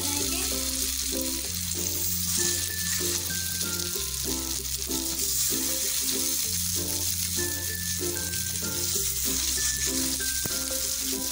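Fish chapli kababs sizzling steadily in hot oil on a flat griddle (tawa) as they fry, with background music playing over it.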